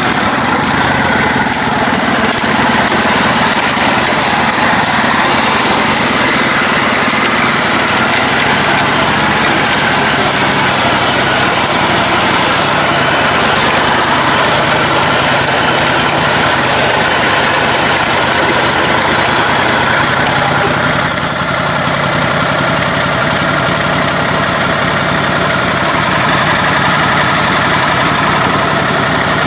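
Lifted, modified riding lawn mower's engine running steadily while it drives along.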